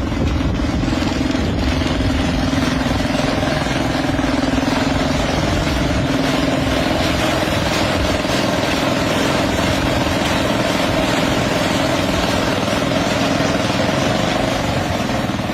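Engine of a homemade helicopter running steadily, a loud even drone with a slight wavering in pitch.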